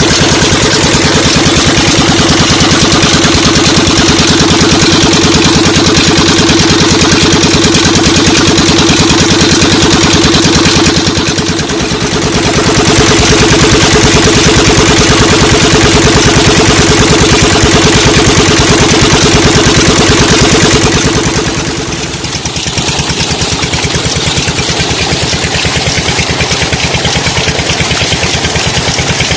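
12 HP Petter diesel engine running steadily with a fast, even beat while belt-driving a tube well pump. Its loudness dips briefly about a third of the way in and again about two-thirds in, after which it runs a little quieter.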